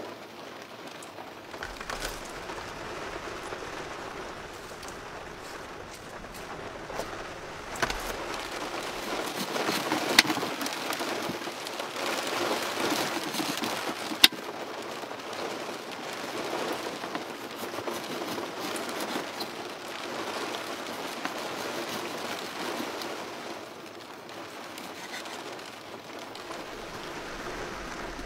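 Heavy rain falling steadily, swelling for a few seconds in the middle, with two sharp louder clicks about ten and fourteen seconds in.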